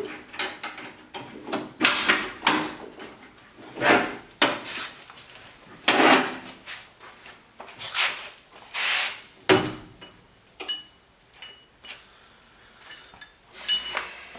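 Irregular clanks, clicks and rattles of metal parts being handled as a pickup's broken outside door handle is worked out of the door, busy for the first ten seconds or so and sparser after.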